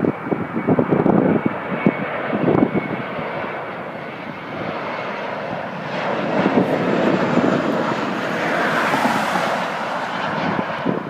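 Boeing 737-700's CFM56 jet engines on a landing, a broad jet rush that swells to its loudest about nine seconds in and then eases off. Wind buffets the microphone during the first few seconds.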